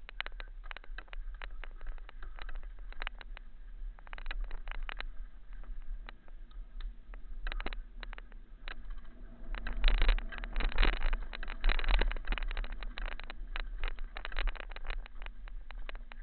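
Mountain bike riding over a rocky trail: a continuous irregular rattle and clatter of tyres and frame over stones, with a low rumble on the microphone. It gets louder and busier about two-thirds of the way through, as the ground gets rougher.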